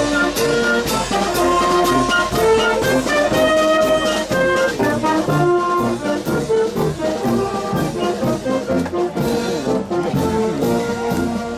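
Brass band playing a march, sustained melodic brass lines over a steady drum beat.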